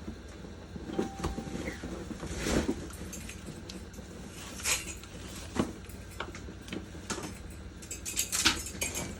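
Heaped household garbage and debris rustling, crinkling and clattering as someone climbs over it and digs through it, with irregular knocks and a louder clatter near the end.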